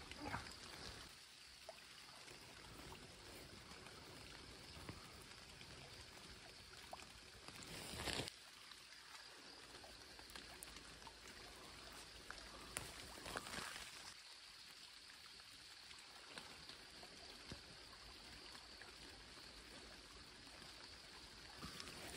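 Faint steady hiss of light rain, broken by a few brief rustles of vine branches, leaves and a rain jacket as grapes are picked, about eight and thirteen seconds in.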